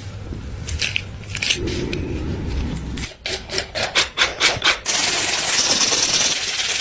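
Abrasive work on a rusty knife blade: a low rubbing at first, then quick rhythmic rubbing strokes a few times a second, then a steady high hiss of continuous abrasion in the second half.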